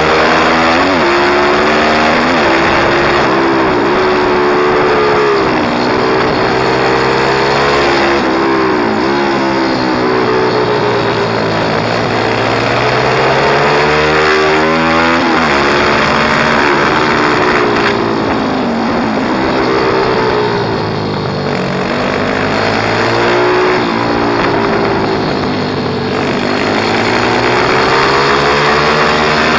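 Pit bike engine revving up and falling back again and again as it is ridden, its pitch rising under throttle and dropping off between.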